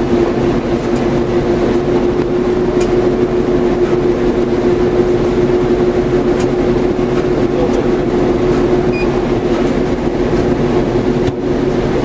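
Steady drone of an idling vehicle with a constant hum.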